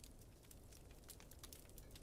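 Wood fire crackling in a fireplace, quiet and irregular small pops several times a second over a low steady rumble.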